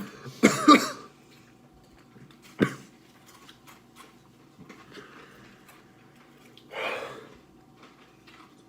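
A person gasping and blowing out hard, unable to speak from the burn of ghost pepper chicken wings: a loud breathy burst about half a second in, a sharp click near three seconds, and another hard exhale about seven seconds in.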